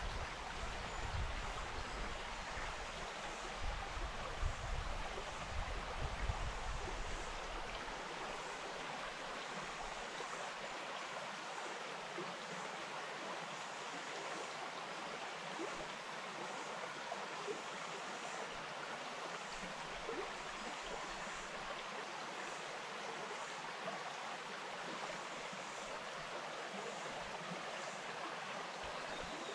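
Shallow bush stream flowing over rocks, a steady rush of water. A low rumble with a few bumps sits under it for the first seven seconds or so, then drops away.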